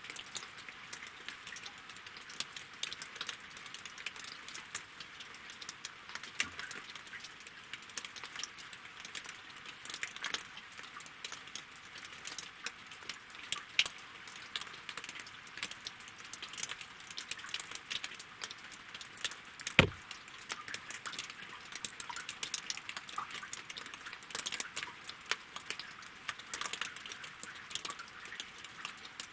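Rain falling on lake water and wooden logs: a dense patter of small drop ticks over a steady hiss, with one louder, sharper drop about two-thirds of the way through.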